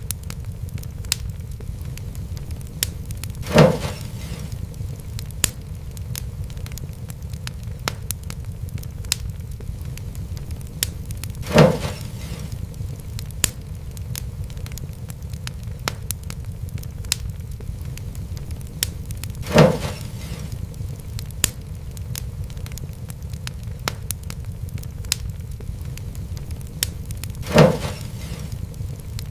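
Fire crackling in a fireplace: a steady low rumble under frequent small sharp crackles, with a louder pop about every eight seconds.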